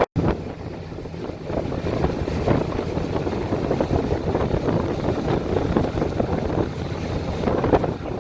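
A boat under way: its motor runs steadily, with wind buffeting the microphone.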